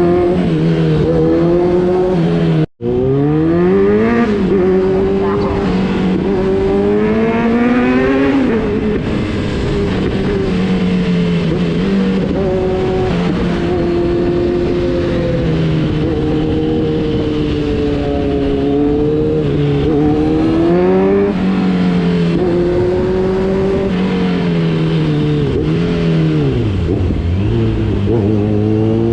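Kawasaki Z900's inline-four engine pulling hard. Its pitch climbs through the revs, then drops at each gear change, several times over. The sound cuts out for an instant a few seconds in, and near the end the revs fall low before climbing again.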